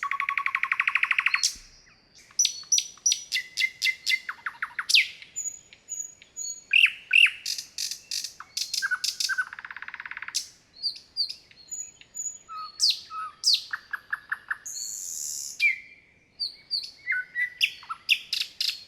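Songbirds singing in a spring forest: overlapping quick chirps, fast rattling trills and short high whistles.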